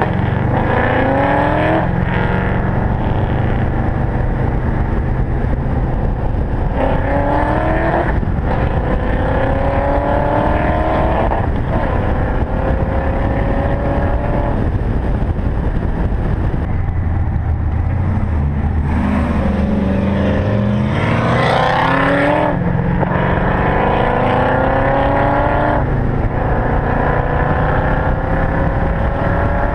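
Supercharged V8 of a TVR Chimaera accelerating hard through the gears. The engine note climbs in pitch, drops at each gear change and climbs again several times, with one especially high, loud rise a little past the middle.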